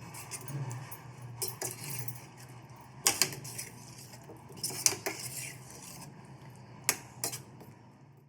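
A metal utensil clinking and scraping against a cooking pan, with several sharp clinks, the loudest about three, five and seven seconds in.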